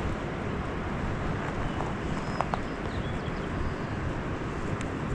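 Steady wind rumbling on the microphone outdoors, with a couple of faint clicks about halfway through.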